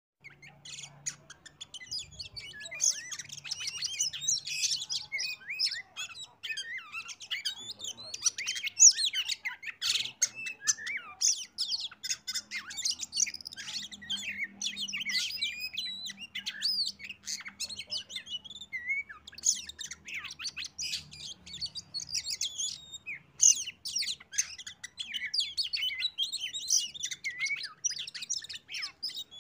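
Oriental magpie-robin (kacer) singing a dense, rapid run of varied chirps, trills and whistles almost without pause: a lure song meant to set caged kacer singing along.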